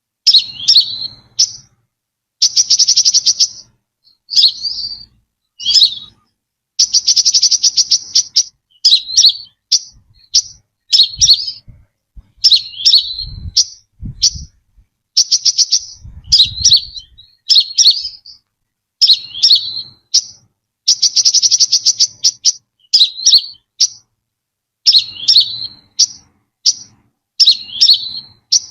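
Brown-throated sunbird singing: short, sharp, hooked high notes alternating with buzzy, rapidly pulsed trills about a second long, repeated phrase after phrase.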